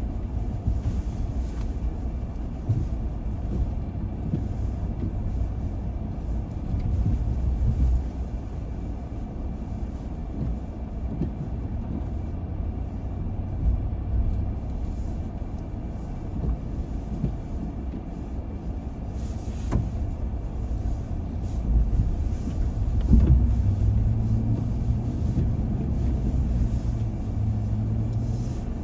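A car driving: steady low rumble of engine and road noise, with a few brief knocks.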